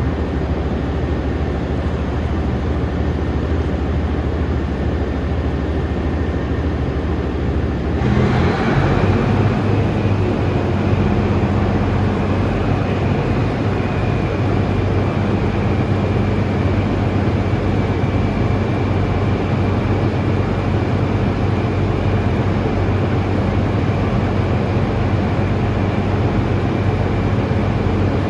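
JR Freight DD200 diesel-electric locomotive starting up: a steady low hum, then about eight seconds in the diesel engine starts and settles into a louder steady drone with a thin high whine above it.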